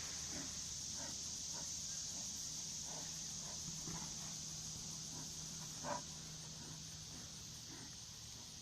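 Steady, high-pitched insect chorus typical of crickets, with faint irregular clicks and snaps over it, one louder snap about six seconds in.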